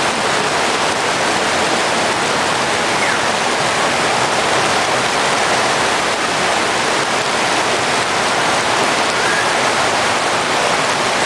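Heavy rain pouring down, with a steady rush of running water.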